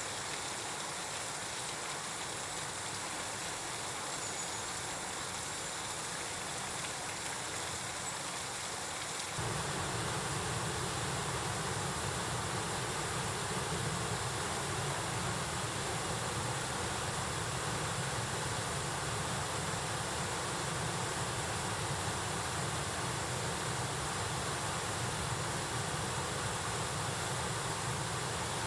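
Steady rush of a mountain stream flowing over rocks. About nine seconds in it changes abruptly to a louder, deeper rush.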